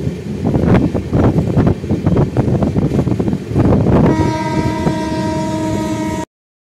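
Train running with a rattling clatter of wheels and rail joints, then a train horn sounds one steady note about four seconds in. The sound cuts off abruptly about two seconds later.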